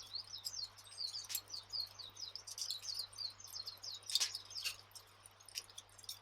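Wood fire crackling, with several sharp pops, the loudest about four seconds in. A dense run of high chirps goes on throughout.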